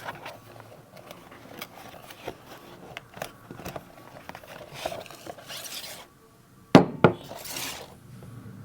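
A perfume bottle and its box being handled: rubbing, scraping and many small clicks and knocks, with two loud sharp clicks about seven seconds in, followed by a short hiss.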